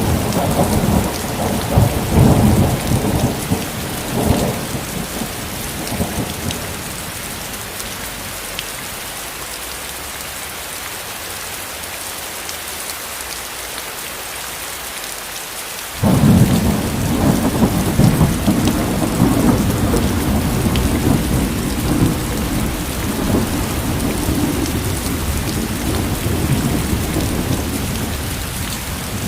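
Steady heavy rain hissing on a surface, with rolling thunder. A rumble dies away over the first few seconds, and about halfway through a sudden loud thunderclap breaks in and rumbles on, slowly easing off.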